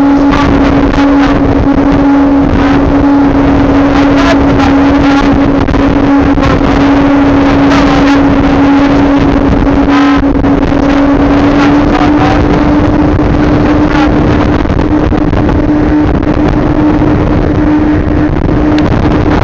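Outboard motor running steadily at speed with the boat up on the plane, a constant engine hum under a rush of wind and water noise.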